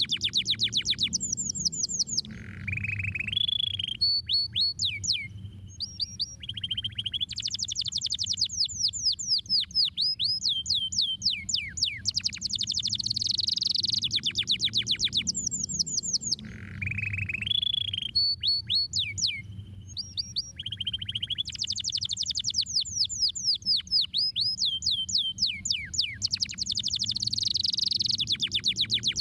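Domestic canary singing: fast trills of rapidly falling notes alternating with lower rolling phrases, the same song sequence coming round again about every 14 seconds. A low steady hum runs underneath.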